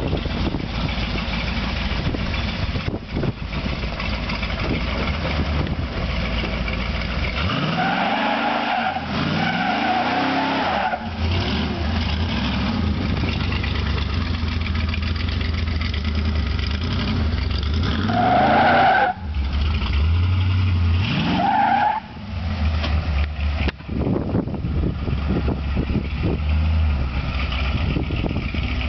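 1968 Camaro's engine running and revving up sharply several times, with each rev joined by a short high squeal.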